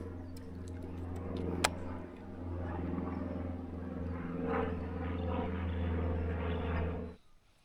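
A motor running steadily with a low, even hum, which cuts off abruptly near the end; a single sharp click sounds early on.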